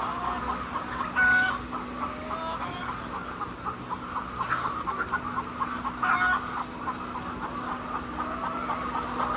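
A flock of laying hens clucking together, with louder squawks about a second in and again around six seconds. A steady low hum sounds underneath.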